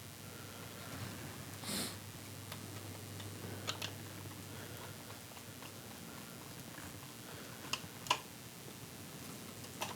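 Faint, scattered small clicks and taps of a screwdriver and small metal parts being handled while lamp wires are fitted and screwed into their terminals, with a soft rustle near the start.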